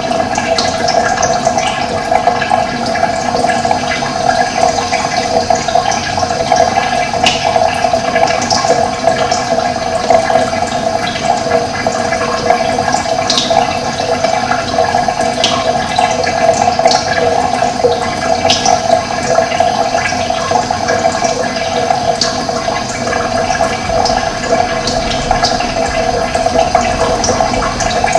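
Steady rush of running water, with occasional short high chirps of wild birds over it.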